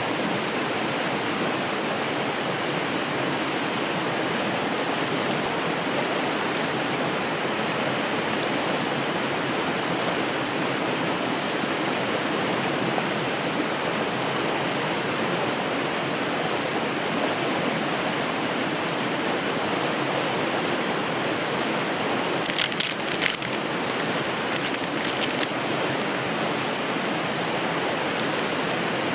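Mountain river rushing steadily. A few brief clicks or rustles come about three quarters of the way through.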